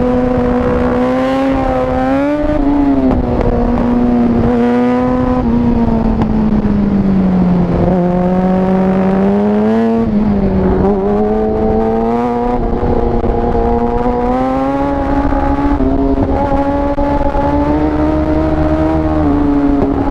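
Yamaha R6 sport bike's inline-four engine at high revs heard on board at track speed, its pitch rising and falling with throttle and a few quick gear changes. Near the middle the revs sink for a couple of seconds, then climb again.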